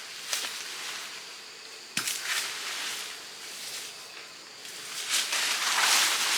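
A few sharp knocks, the strongest about two seconds in, then a longer rustling swish near the end.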